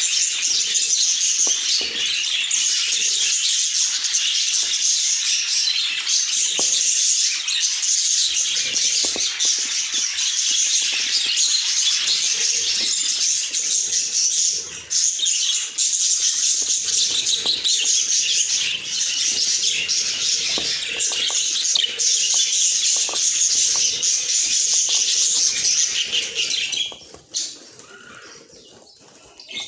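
Budgerigars chirping and chattering continuously in a dense, high-pitched chorus that falls away abruptly about three seconds before the end.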